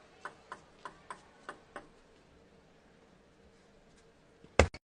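Table tennis ball hitting bats and table in a fast rally, sharp clicks about four a second, stopping after about two seconds. A short loud burst of sound comes near the end.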